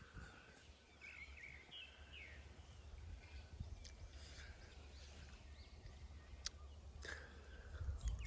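Faint outdoor ambience: a steady low rumble with a few short bird chirps in the first few seconds and scattered faint clicks.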